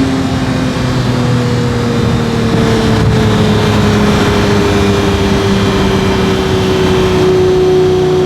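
Lamborghini Murcielago LP640's 6.5-litre V12 through a straight-piped Fi exhaust, droning at a steady cruise with its pitch sinking slowly as the car eases off. Heavy wind and road noise is mixed in, heard from inside the roofless roadster.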